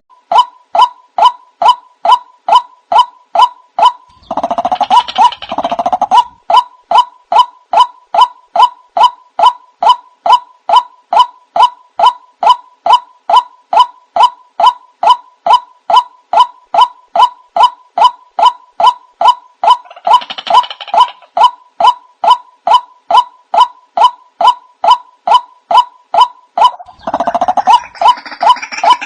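White-breasted waterhen calls played as a lure: a fast, even string of short repeated calls, about two to three a second, broken three times by a denser, harsher chattering burst, the last near the end.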